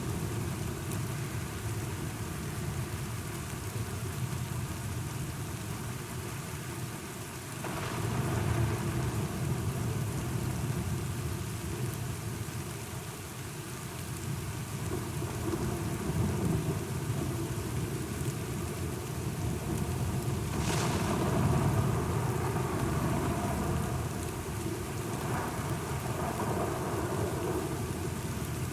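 Steady rain falling through a thunderstorm. Low rolling thunder breaks in suddenly about a quarter of the way in and again about two-thirds of the way in, each time rumbling on for several seconds.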